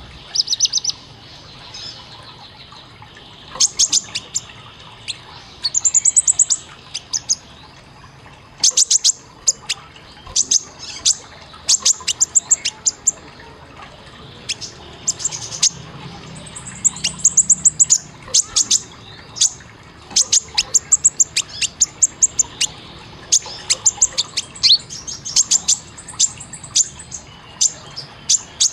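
Kolibri ninja (konin) sunbird calling in rapid bursts of sharp, very high chips and short trills, repeated throughout with brief pauses between clusters: the fast 'tembakan' calls used as a masteran.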